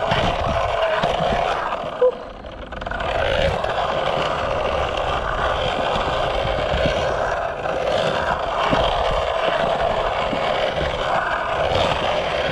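Skateboard wheels rolling on concrete: a steady rough noise, with a sharp knock about two seconds in and a brief lull after it.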